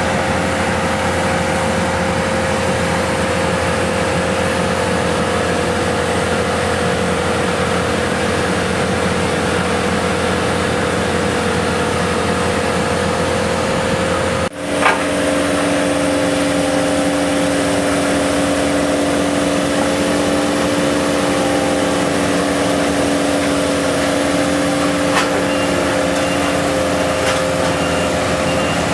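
Heavy road-resurfacing machinery with its engine running steadily. About halfway through the sound breaks off abruptly and a different machine takes over, running at a lower pitch.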